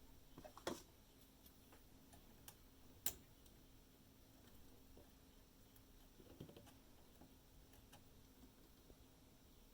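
Near silence with a faint steady hum and a few sharp little clicks, the loudest about three seconds in.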